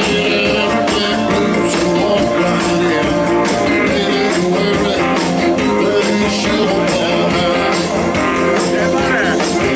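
Live blues-rock band playing, with electric guitar, bass and drums at a steady beat.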